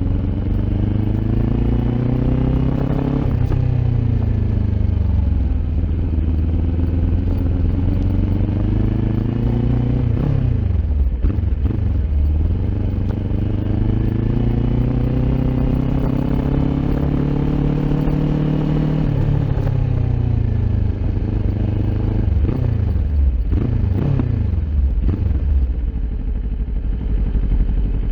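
Kawasaki Ninja 400 parallel-twin engine through an Akrapovic aftermarket exhaust, heard while riding: the revs climb steadily and drop back twice, with short quick rev blips in between.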